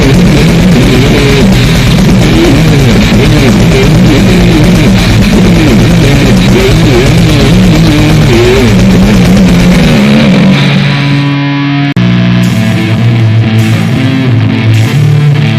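Loud, heavily distorted goregrind music: down-tuned guitar riffing over very fast, even drumming. The drumming drops out about ten seconds in, a short break follows, then the guitar comes back in.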